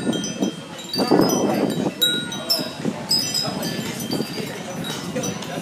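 Wind chimes ringing in a breeze: many short, scattered high notes overlapping at random, over a low murmur of voices.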